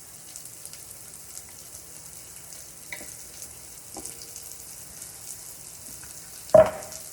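Chopped onion and garlic frying in hot oil left in the pan, a faint steady sizzle with small crackles. A single sharp knock stands out near the end.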